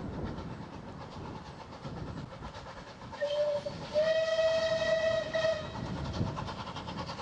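Steam locomotive whistle sounding a short blast and then a longer one, over the steady rhythmic running noise of the train.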